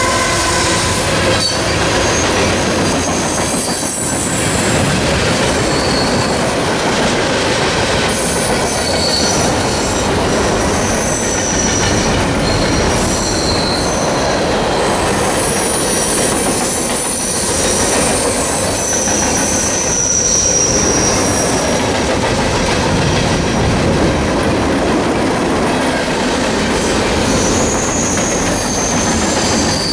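CSX freight train of intermodal container cars rolling past at close range: a steady, loud wheel-on-rail rumble, with high-pitched wheel squeals that come and go.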